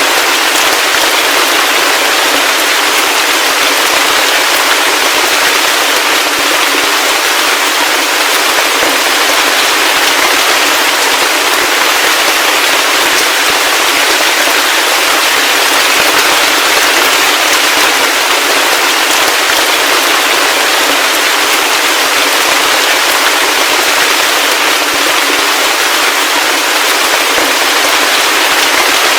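Heavy rain falling steadily, a dense crackling patter of countless drops with no low rumble and no thunder.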